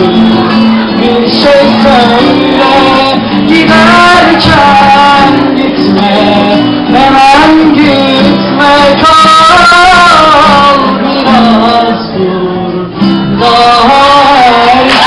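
A song with a voice singing a melody over instrumental accompaniment, with a brief drop in level near the end.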